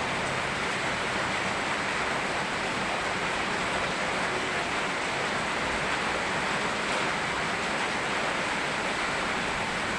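Steady rain mixed with rushing river water: an even, unbroken hiss of water.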